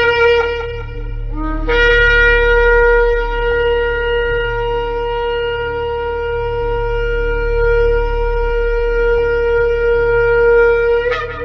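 Shofar blown in a long, steady blast of about nine seconds, taken up after a brief lower-pitched break and ending with a short upward flare. A low steady hum runs underneath.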